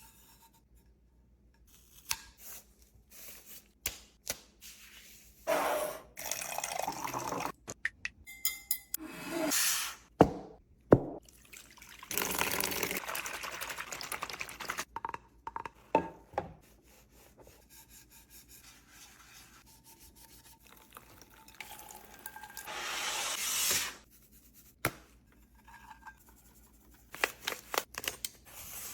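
Water running in several short bursts of a few seconds each, between sharp clicks and knocks of objects being handled during cleaning.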